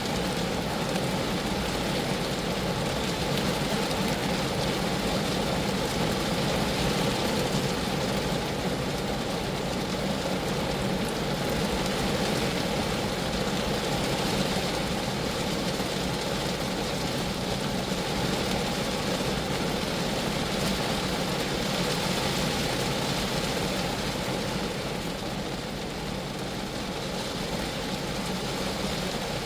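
Steady rain falling on a Geo Metro, a constant, even rushing noise with no single drops standing out, easing slightly near the end.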